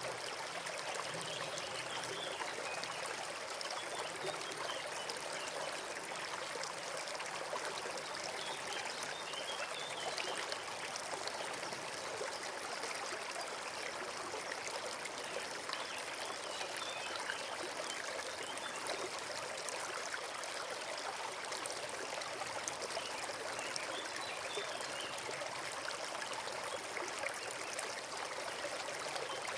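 Forest stream flowing steadily over stones, a continuous babbling and trickling.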